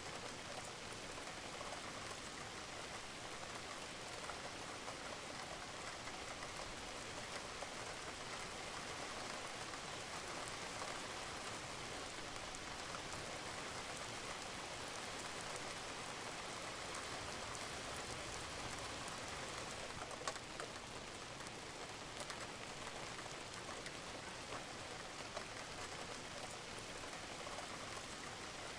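Steady rain falling on a roof, with scattered drops and drips ticking through the even hiss.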